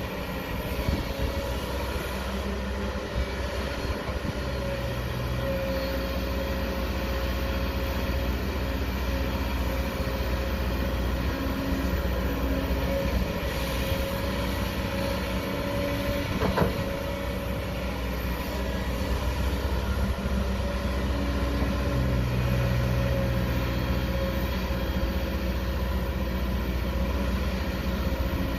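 Heavy diesel excavator engine running steadily while digging, its note swelling under hydraulic load twice. There is a single sharp knock about halfway through.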